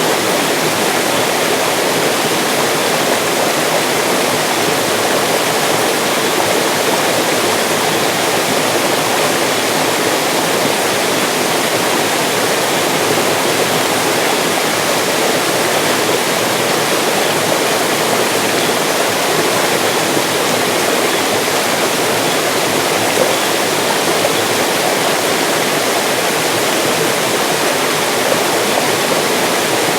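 Mountain stream rushing steadily over rocks, a continuous loud splashing and gurgling of flowing water.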